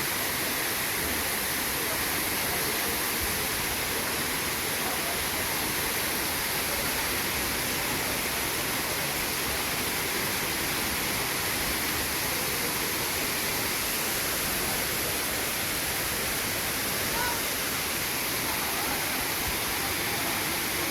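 Steady rush of a waterfall, an unbroken noise of falling water that stays even throughout.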